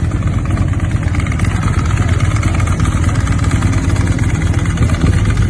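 Custom motorcycle engine idling steadily.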